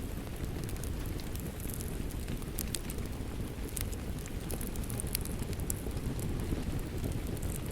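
Wood fire crackling in a fireplace, with scattered sharp pops, over a steady low rush of rain.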